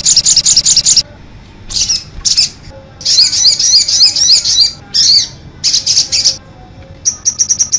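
Sogon, a small sunbird, singing: a fast high trill that breaks off about a second in, then short bursts of quick, high chirping phrases separated by brief pauses, and a rapid run of repeated notes near the end.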